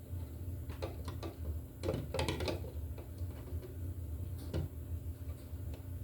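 Scattered light clicks and a short burst of scraping about two seconds in as NM cable is handled and tugged into a plastic junction box, over a steady low hum.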